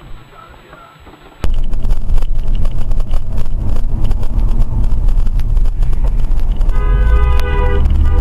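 Loud low rumble of a moving car's road and wind noise starting abruptly about a second and a half in, with a car horn sounding a steady two-tone note for about a second near the end.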